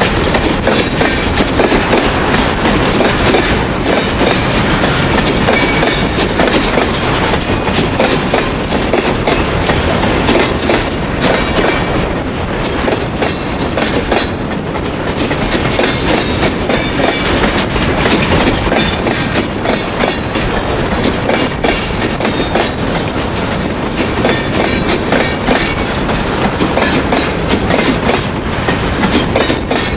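Freight train wagons, boxcars and covered hoppers, rolling past close by, their wheels clattering and knocking steadily over the rail joints of freshly ballasted, not yet aligned track.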